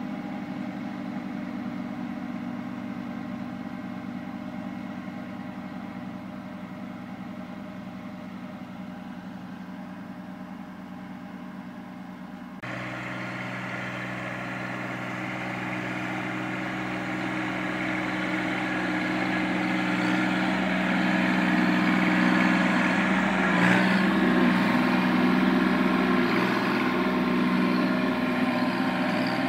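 Kubota B2320 compact tractor's three-cylinder diesel engine running steadily. About halfway through, the sound jumps abruptly louder and brighter, then keeps growing louder. A short knock comes about 24 seconds in.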